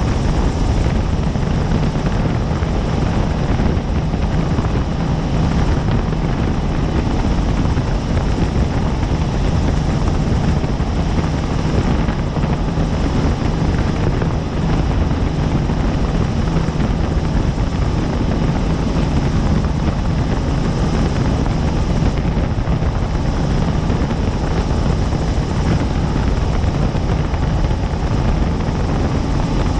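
Helicopter in flight, heard from on board: the steady, loud run of the rotor and engine, with a fast pulsing beat in the low end and no change in pace.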